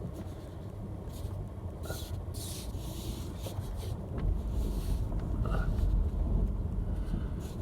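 Vehicle noise heard from inside a car: a steady low rumble that grows louder about four seconds in.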